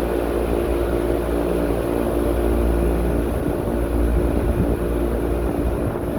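Carrier rooftop package air-conditioning unit running, its condenser fan and compressors giving a steady mechanical hum with several steady tones. A low wind rumble on the microphone lies under it.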